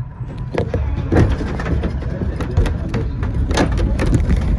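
A 2 ft gauge narrow-gauge railway carriage rolling slowly along the track, heard from on board: a steady low rumble with scattered clicks and clanks from the wheels on the rails.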